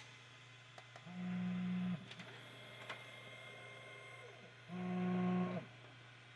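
Stepper motors of a budget 3D printer making two moves, each a steady buzzing tone about a second long, the second a few seconds after the first. A low steady electrical hum runs underneath.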